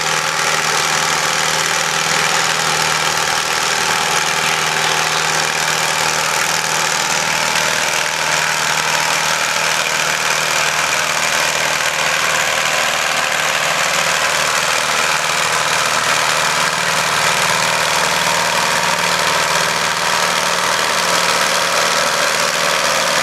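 Ford 861 tractor's four-cylinder diesel engine running steadily under load while pulling a weight sled down the track.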